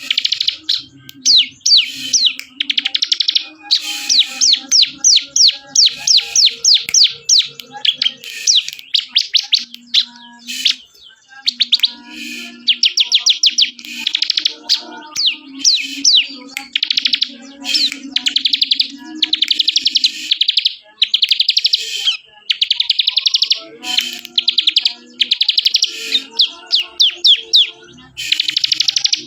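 Ciblek (bar-winged prinia) singing vigorously: phrase after phrase of fast, high, chattering trills of repeated sharp notes, with short breaks between phrases. A faint low hum runs underneath.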